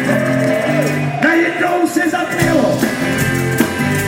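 A rock and roll band playing live, with a melodic line gliding over the steady backing.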